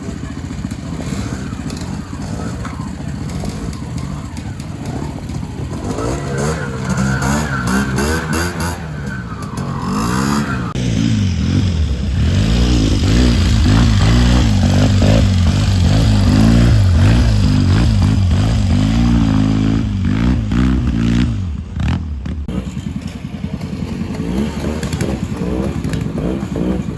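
Classic trials motorcycle engine working through a section, its revs rising and falling in quick bursts. It grows louder through the middle, then drops back near the end.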